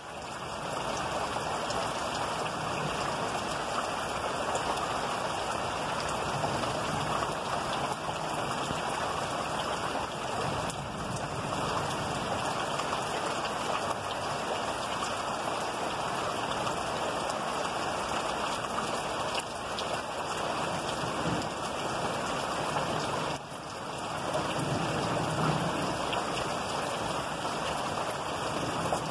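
Steady rain of a thunderstorm, with a low rumble of thunder a little past the three-quarter mark.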